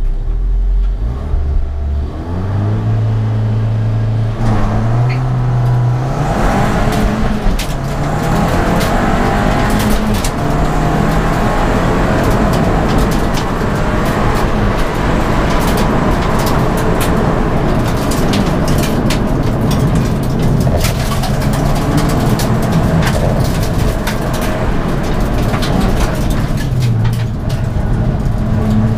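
Ford Fiesta ST race car's engine, heard from inside the stripped, roll-caged cabin. It is revved and held at raised revs on the start line, then launched about six seconds in. From there it accelerates hard up the hill, revs climbing and dropping with each gear change.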